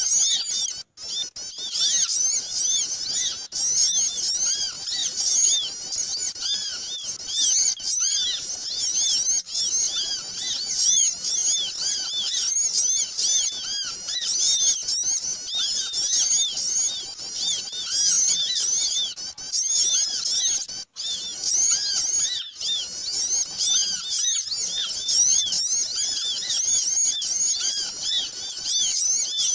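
A dense chorus of many small birds chirping and twittering without pause, a recording played to lure small birds. The sound cuts out briefly about a second in and again about two-thirds of the way through.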